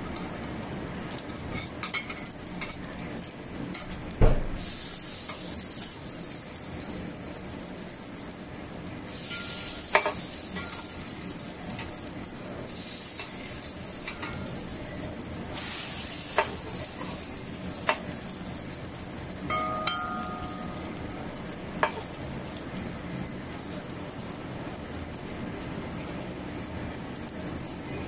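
Corn fritters sizzling in shallow oil in a wok, the sizzle hissing louder for stretches as a metal spatula turns them over. Sharp clicks and knocks of the spatula against the pan come every few seconds, the loudest about four seconds in.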